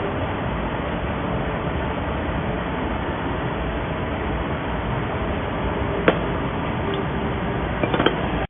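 Small induction gold melting furnace running with a steady mechanical hum and hiss, with one sharp click about six seconds in and a few quick clicks near the end.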